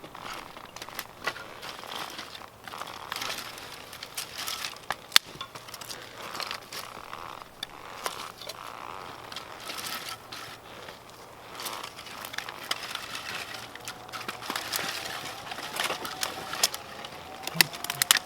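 Wood campfire crackling: irregular snaps and pops over a soft hiss, one sharper pop about five seconds in and quicker pops near the end.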